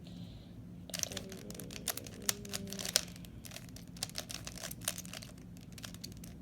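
Plastic 3x3 Rubik's Cube being twisted rapidly by hand: a quick, irregular run of sharp clicks and clacks from its turning layers, starting about a second in.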